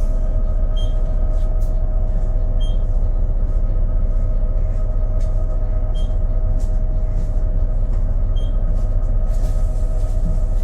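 Volvo B12BLE bus diesel engine running with a steady heavy rumble and a constant whine over it, the engine sound its owner finds odd. A few faint ticks sound now and then.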